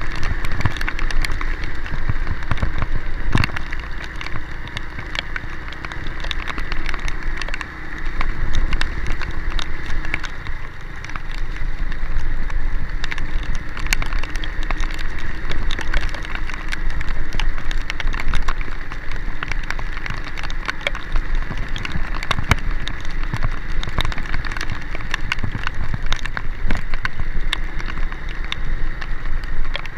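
Heavy rain pattering and drumming on a nearby surface, many sharp drop impacts over a steady wash of noise, with a vehicle's engine and road noise running steadily underneath.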